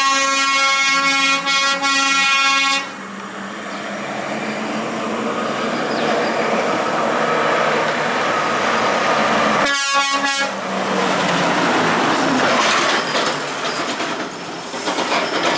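A truck air horn holds a long steady blast that cuts off about three seconds in. Then the heavy truck runs by with engine and road noise, and a second short horn blast comes about ten seconds in.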